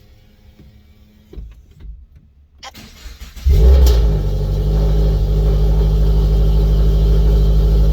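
Turbocharged Scion FR-S's 2.0-litre flat-four cold-starting through a Remark quad-tip aftermarket exhaust: after a short crank, the engine catches about three and a half seconds in, flares up, then settles into a steady idle.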